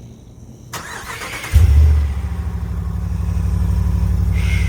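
Ram pickup's 5.7-litre HEMI V8 being started: a brief cranking whir, then the engine catches suddenly about a second and a half in and settles into a steady, loud idle.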